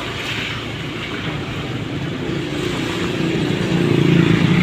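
Vehicle noise from riding a motorbike on the road: a steady noise, with an engine note that builds and grows louder in the second half.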